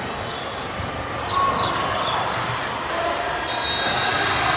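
Indoor volleyball play: the ball being struck and bouncing, with short high sneaker squeaks on the court floor and players' voices in the background.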